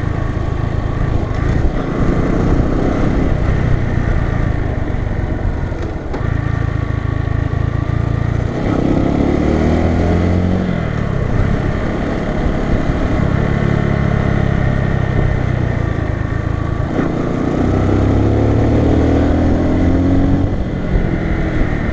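Bajaj Boxer 150 motorcycle's single-cylinder engine running while riding. Its pitch climbs twice as it accelerates, about a third of the way in and again near the end, with steadier running between.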